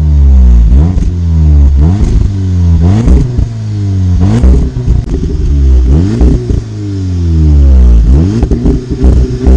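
Audi S3 facelift's turbocharged 2.0 TFSI inline-four revved again and again through its exhaust, the pitch dropping after each rev, with sharp pops and crackles as the revs fall and more of them near the end.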